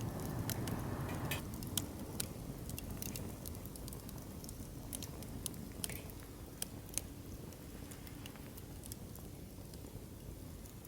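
Wood campfire crackling in a fire pit, with sharp irregular pops over a low rumble of the flames that eases after about a second and a half.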